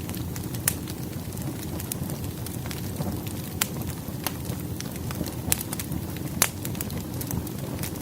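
Wood fire burning with a steady low crackle and sharp irregular pops of burning firewood.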